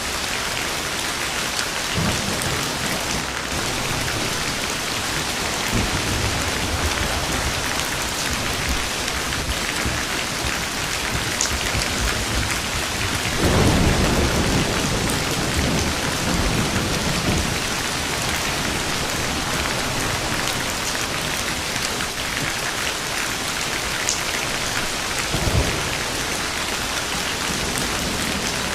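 Steady heavy rain with rolling thunder: low rumbles about two and six seconds in, a louder peal about halfway through that rumbles on for a few seconds, and a short sharp crack near the end.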